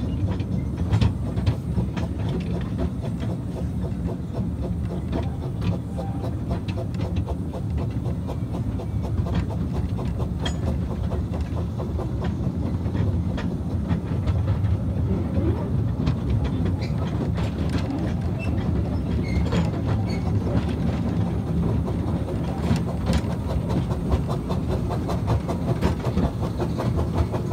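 A small light-railway train running, heard from on board an open wagon: a steady rumble with frequent wheel clicks over the rails.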